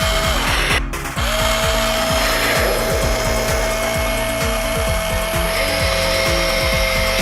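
Electronic jet-engine sound effect from a battery-powered toy airliner, a steady whine over a rushing hiss, breaking off briefly about a second in and then starting again. Background music with a steady beat plays underneath.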